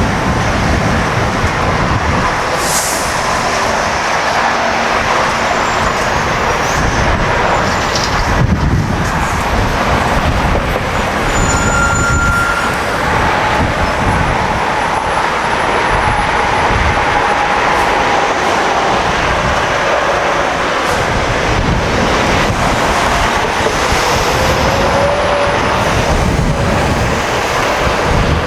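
Steady rumble and tyre noise of heavy trucks passing on a highway.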